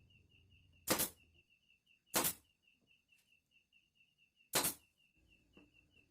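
Three short hissing swishes, spaced one to two and a half seconds apart, over a faint steady high-pitched pulsing chirr.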